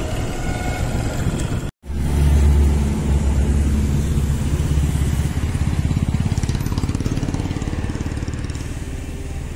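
Motorcycle engine running at low speed, with a fine, even firing pulse. It cuts out briefly about two seconds in, comes back loudest just after, and then runs steadily, slowly getting quieter.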